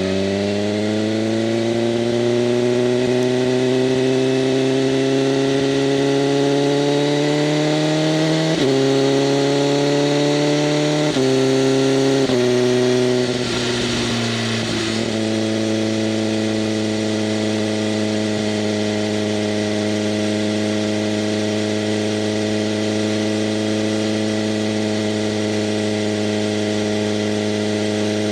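BMW M1000RR's inline-four engine through an SC-Project CRT exhaust with its flaps open, heard on the move. The revs climb steadily for the first eight seconds, step sharply up and down a few times, drop briefly, then hold steady for the rest.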